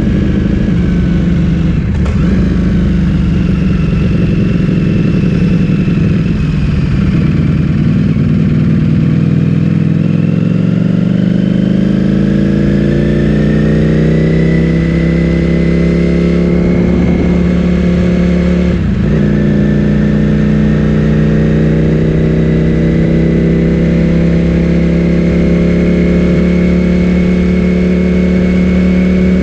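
Ducati Streetfighter V4S's 1103 cc V4 engine running through an Akrapovic full-system exhaust, heard from on the bike. It runs at low, uneven revs for about ten seconds, then pulls with the pitch rising, breaks off briefly about two-thirds of the way through, and then holds steady revs.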